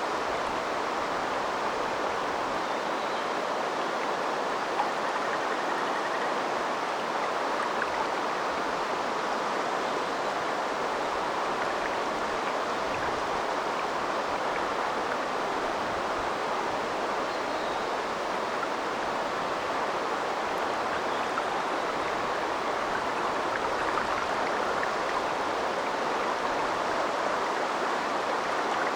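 River water flowing steadily with a continuous rushing babble. A few brief splashing ticks stand out here and there.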